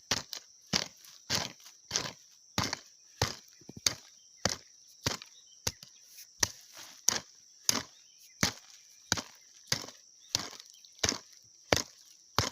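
A digging tool chopping into soil in a steady rhythm, about one stroke every half second or so. Behind it runs a steady high-pitched insect drone.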